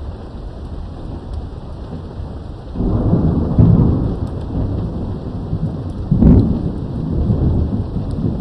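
Thunderstorm with steady rain: a rumble of thunder sets in about three seconds in and stays loud, with a sharper clap of thunder a little after six seconds.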